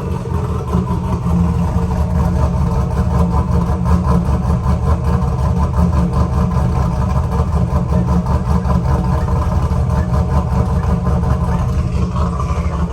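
Cammed 6.0-litre LS V8 in a 2001 Pontiac Trans Am WS6 idling cold with a loud, uneven, choppy lope from its big cam.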